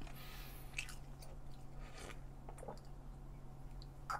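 Faint chewing of a mouthful of grilled pork, with soft scattered mouth clicks. A short sip of a shot of liquor near the end.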